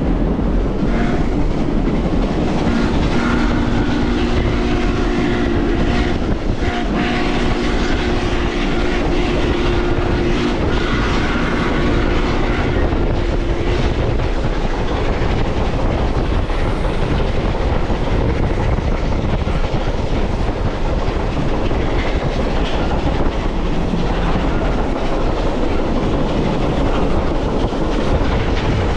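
Excursion train running on the rails: a steady rumble of wheels with clickety-clack. A faint, steady whine runs alongside from about two to fourteen seconds in.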